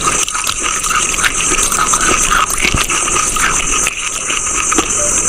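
Close-miked crunching of a brittle chalk-like mineral being bitten and chewed: a quick irregular run of sharp crackles over a steady high hiss.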